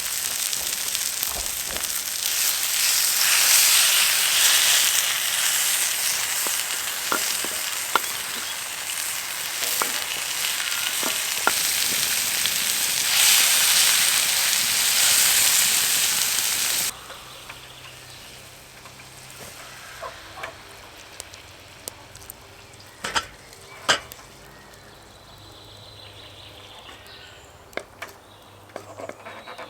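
Food sizzling in a pan over a campfire: a loud, steady hiss with a few sharp clicks. About seventeen seconds in, it cuts off suddenly to a much quieter background with occasional knocks.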